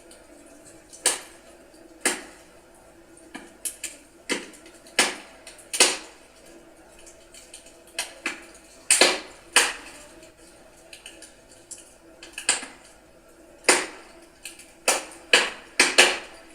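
Burning firewood crackling, with irregular sharp pops and snaps about once a second over a faint steady background.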